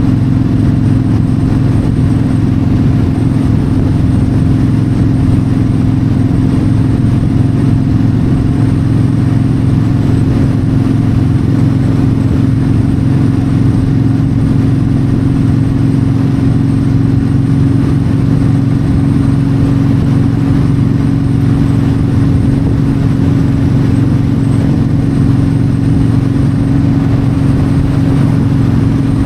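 Yamaha V-Star 1300 V-twin engine running steadily while cruising on the highway, with wind rushing past the microphone.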